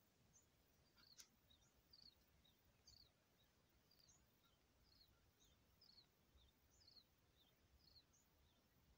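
Near silence: faint room tone with a bird chirping in the background, short falling notes repeated about once a second.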